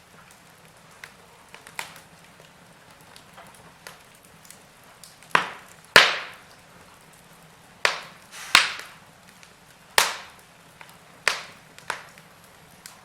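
Logs burning in a fireplace, crackling with sharp pops and snaps. About seven loud snaps come from about five seconds in, among many small scattered ticks over a faint steady hiss.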